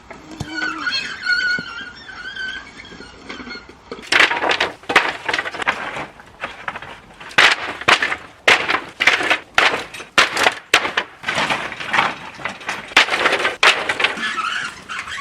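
A high, wavering squeal from a broken unloading mechanism, then a long run of sharp knocks and clatters as pallet wood tumbles off the load.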